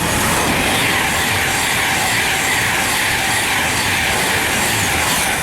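Virgin Trains Class 390 Pendolino electric train passing at speed: a loud, steady rush of wheels on rail and air.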